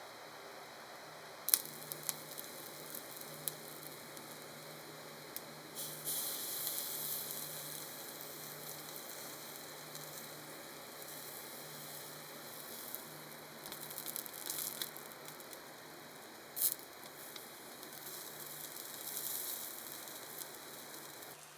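Food sizzling in a pan: a steady hiss that swells in several bursts, with a few sharp clicks and taps.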